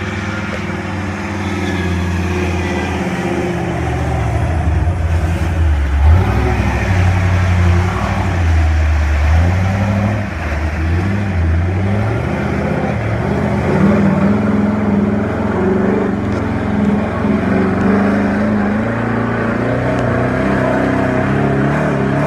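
1978 Chevy mud truck's engine running under load on a trail, revving up and falling back again and again.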